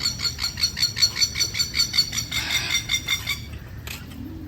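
Chattering of Australian birds: a fast, even run of repeated high calls, about six or seven a second, that dies away a little after three seconds in.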